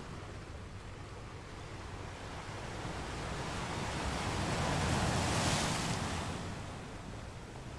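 Ocean waves on a sandy beach: one wave swells, breaks and washes in about five seconds in, then draws back.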